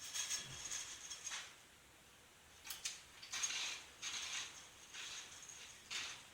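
Dry puffed cereal being crunched while chewing, heard as quiet short crisp bursts with a few sharp clicks among them and gaps between.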